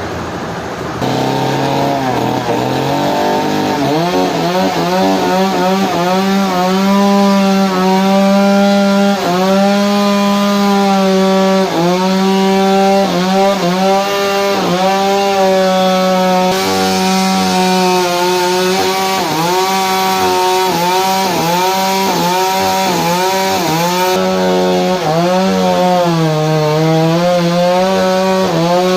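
Power saw cutting wood under load, its motor running at a high steady pitch that dips briefly and recovers every second or two as it bites into the log. It settles at that pitch about four seconds in.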